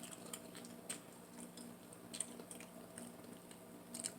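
Faint eating sounds: soft mouth clicks and chewing, with a few light ticks spaced about a second apart, over a faint steady hum.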